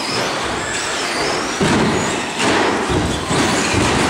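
Radio-controlled short-course trucks racing: a steady noise of motors and tyres with thin, high motor whines rising and falling in pitch, and scattered knocks and thuds.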